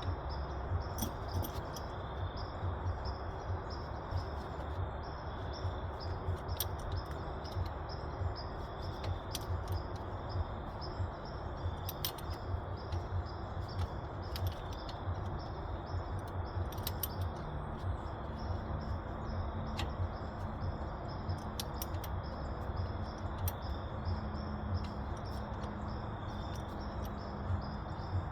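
Outdoor ambience: a steady low rumble with high, pulsing chirps running through it, and scattered short, sharp clicks.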